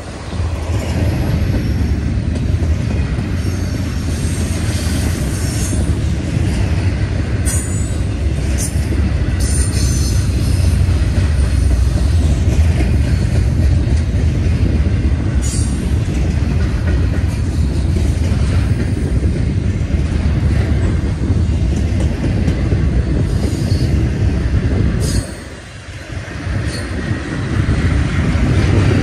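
Double-stack intermodal freight train rolling past: a steady low rumble of steel wheels on rail, with brief high wheel squeals several times. The rumble drops off briefly a little before the end, then builds again.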